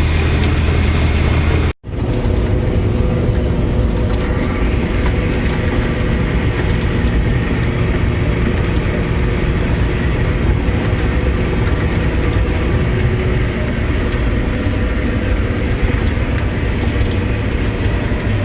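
Tractor and forage chopper running steadily while chopping hay, a constant heavy machine noise. The sound cuts out for an instant about two seconds in, then carries on.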